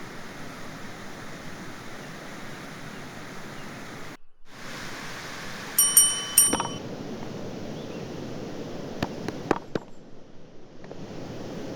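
Two ringing metallic clinks about half a second apart, metal cookware or utensils striking each other, followed by a few light knocks, over steady outdoor noise.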